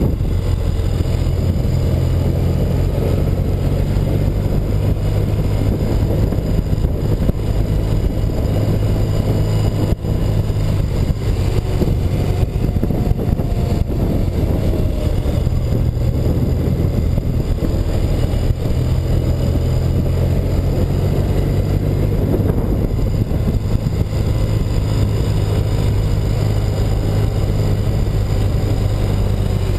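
A 1984 BMW R100RS's air-cooled flat-twin boxer engine running under way, its pitch stepping up and down several times with throttle and gear changes.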